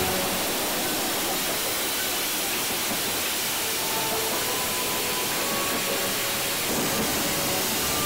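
Steam locomotive letting off steam: a steady, even hiss.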